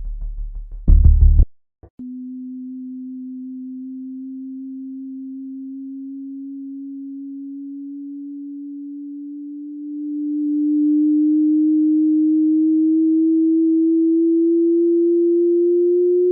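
A single pure electronic tone, held low and gliding slowly upward in pitch, growing louder about ten seconds in. It is preceded by a low rumble and a short, loud low thump in the first second and a half.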